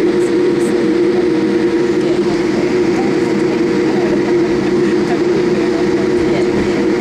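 Steady cabin drone inside a Boeing 787 Dreamliner in flight: engine and airflow noise with an unbroken hum.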